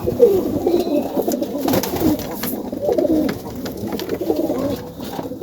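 Domestic pigeons cooing, one low coo after another, each rising and falling in pitch, with several birds overlapping.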